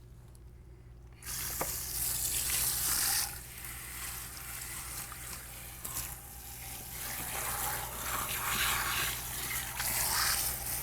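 Water running and splashing at a sink, starting suddenly about a second in and rising and falling in strength.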